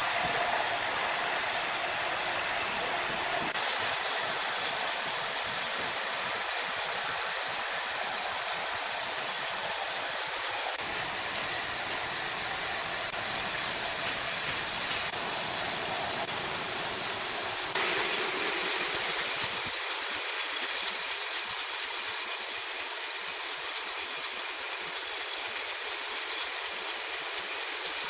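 Steady machinery noise with a hissing, rattling quality. It changes abruptly twice, about three and a half seconds in and again near eighteen seconds.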